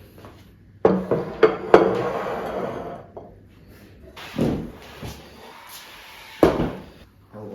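Household handling noise: a quick cluster of three sharp knocks about a second in, then a rough noise that fades over about a second, and two more single thuds later.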